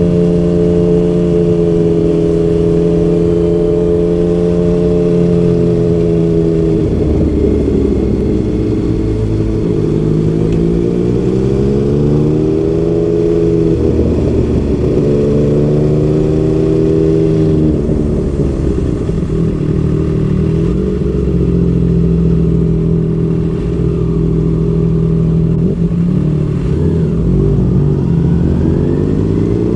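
Yamaha MT-09 triple-cylinder engine through a Yoshimura R55 slip-on exhaust while riding. It holds steady revs, the revs drop and pick up again several times, and near the end they climb steeply under acceleration.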